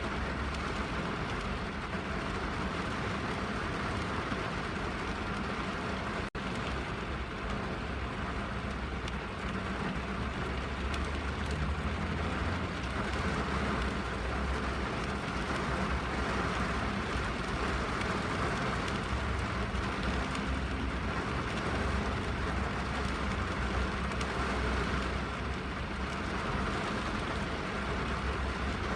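Rain falling steadily on a car's roof and windows, heard from inside the cabin, with a low rumble underneath. The sound drops out for an instant about six seconds in.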